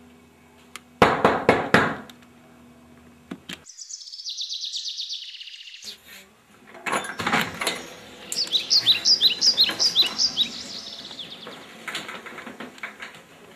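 Small birds chirping, with a quick run of high chirps in the back half. About a second in come four loud, short thumps, and faint clicks are scattered throughout.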